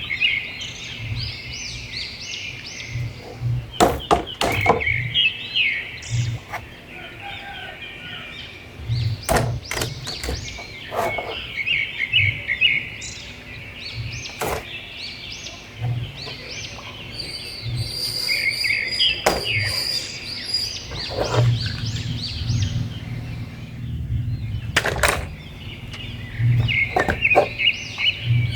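Small birds chirping and twittering in repeated bursts, with scattered sharp clicks and knocks.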